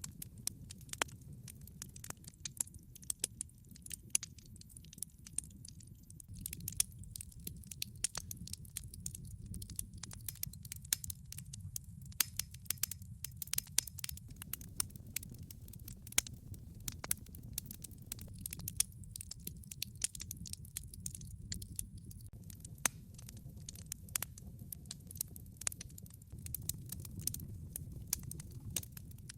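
Wood fire in a fireplace, burning logs crackling and popping in quick irregular snaps over a steady low rumble of flame.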